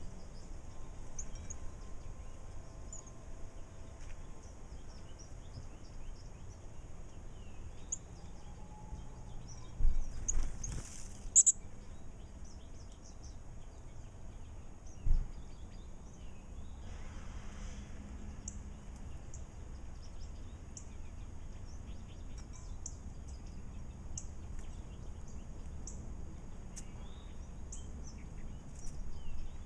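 Small birds chirping with short, high calls scattered throughout, over a steady low background rumble. A brief louder burst of noise comes about ten seconds in, and a short low thump a few seconds later.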